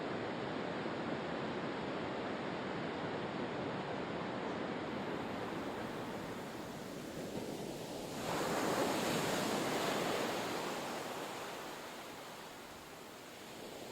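Ocean surf washing on a shore: a steady wash of water, then a louder wave surging in about eight seconds in and slowly dying away.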